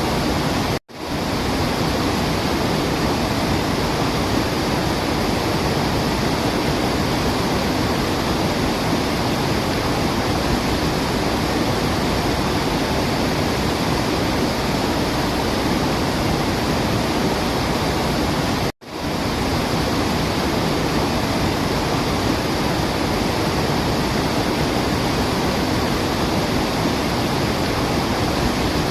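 Waterfall: a steady, even rush of falling water with no birdsong audible. It cuts out abruptly to silence for a split second twice, about a second in and again about two-thirds of the way through, at what sound like loop joins.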